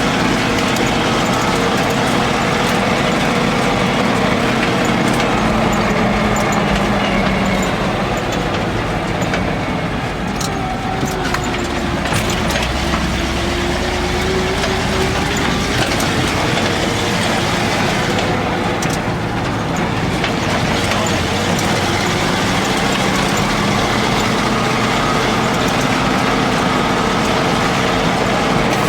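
ZIL-131 six-wheel-drive army truck's V8 engine running steadily; its pitch sags for several seconds around the middle and climbs back up near the end.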